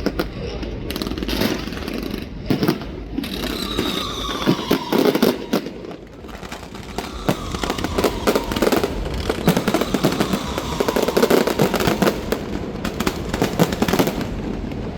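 Fireworks going off in rapid succession: a dense run of bangs and crackles, with a faint tone slowly falling in pitch through the middle.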